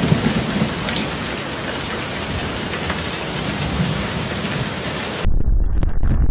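Heavy rain, a steady dense hiss with some low rumble underneath. About five seconds in it cuts abruptly to a louder, deep rumbling noise with the high end gone.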